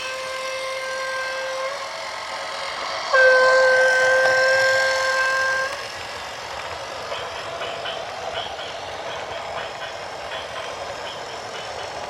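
A vehicle horn holding one steady note: a blast for about the first two seconds, then a louder long blast of about two and a half seconds, followed by a steady vehicle rumble.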